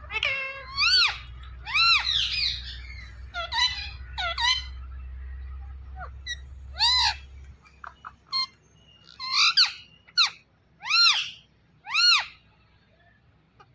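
Ringneck parakeet giving a series of short, loud calls, each rising and falling in pitch, about one a second with a few pauses. A low steady hum runs underneath for the first half.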